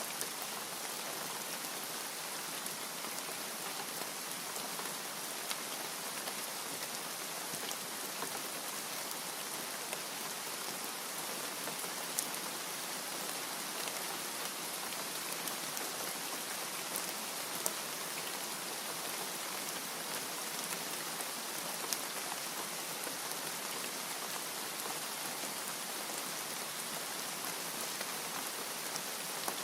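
Steady rain falling on a surface: an even hiss with scattered sharp drop ticks, a few of them standing out, about every five seconds.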